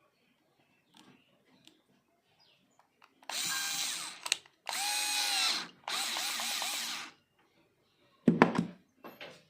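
Electric drill-driver running in three short bursts of about a second each, its motor whine bending in pitch as it spins up and down, followed by a couple of sharp knocks near the end.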